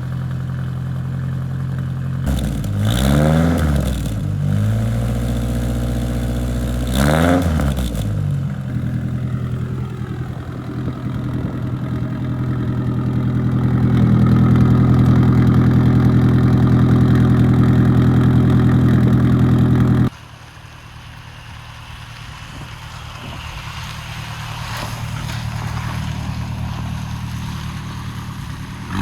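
Ford Pinto four-cylinder engine running through its freshly welded custom exhaust and muffler, revved twice in quick blips early on, then holding a steady, louder fast idle. About two-thirds through the sound drops off suddenly to a quieter engine note that rises and falls, as the car is driven.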